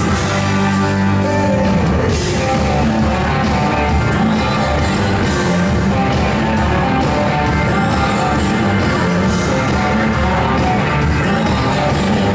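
Live blues-rock band playing loudly: electric guitars, bass, drums and keyboards, with singing.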